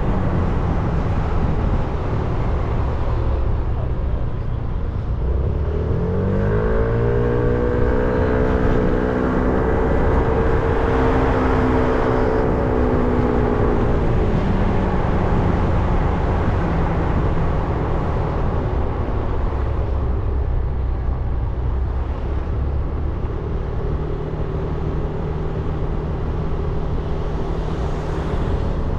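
300cc motorcycle engine under way: it revs up about six seconds in, holds higher revs for several seconds, then eases back to a lower steady note. Steady road and wind noise runs underneath.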